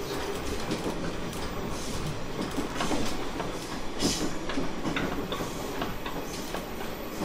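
Onboard running sound of a JR East 719 series electric multiple unit: steady wheel-on-rail noise with irregular clicks as the wheels pass over rail joints.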